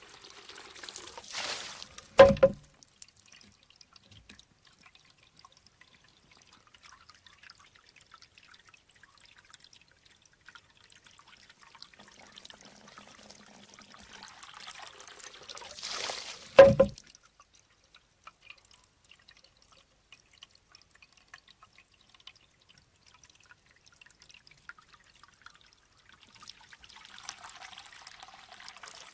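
Shishi-odoshi bamboo fountain: water trickles steadily into the bamboo tube, which tips, empties with a short pour and swings back to strike its rock with a sharp knock. This happens twice, about fourteen seconds apart.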